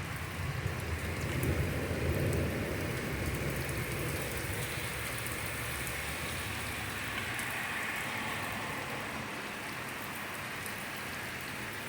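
Torrential rain pouring steadily, with a low rumble that swells and fades over the first few seconds.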